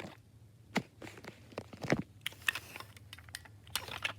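Irregular light clicks and taps of small plastic toys being handled, about a dozen in a few seconds.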